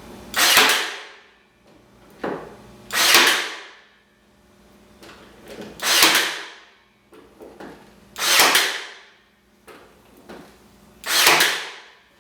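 A nail gun firing 3/8 inch nails into pallet-wood planks, five shots about two and a half seconds apart, each a loud burst that fades over about half a second, with small clicks between shots.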